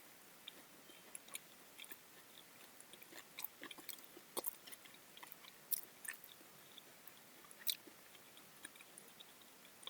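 A person chewing fruit with the mouth close to the microphone: quiet, irregular wet clicks and small crunches, a few sharper ones around the middle.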